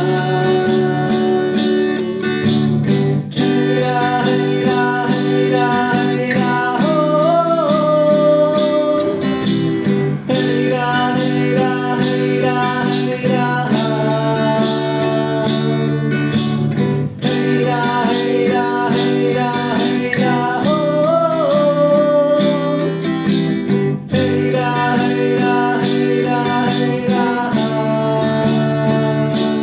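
Music: an instrumental passage of a song, with acoustic guitar strummed and a melody line that bends in pitch twice. The phrase repeats about every seven seconds.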